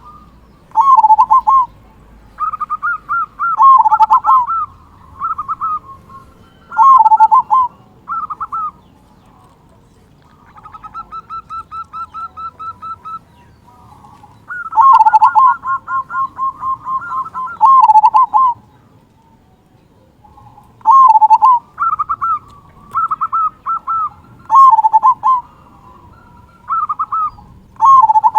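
Local zebra dove (perkutut) in full song, with the deep 'kung' voice that keepers prize: loud cooing phrases of quick rolling notes, repeated every second or two, with a softer run of rapid even notes from about ten to thirteen seconds in.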